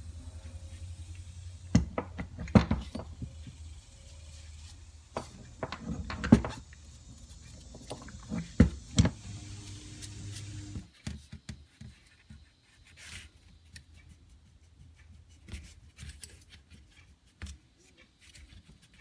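Metal parts clinking and knocking over a low steady hum. The hum stops about eleven seconds in, and light scattered clicks follow.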